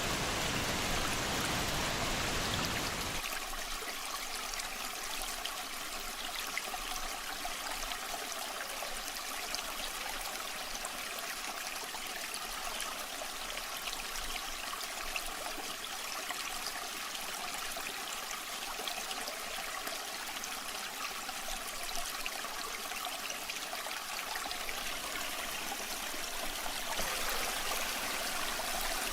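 Steady rush of flowing, falling water from a waterfall. About three seconds in it changes abruptly to a thinner, lighter trickle with less low rumble, and near the end it turns fuller again.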